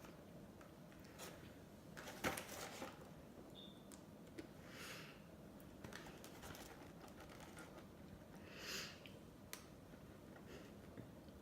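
Quiet eating sounds from ice cream: scattered small mouth clicks and smacks, a sharper click about two seconds in, and two short breathy swishes, one near the middle and one near the end.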